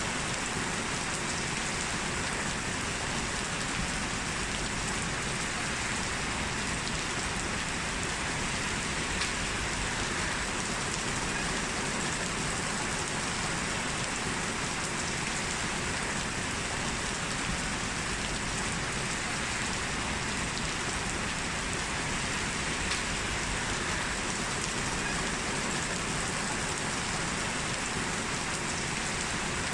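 Heavy rain falling steadily, a constant dense hiss with faint individual drop ticks.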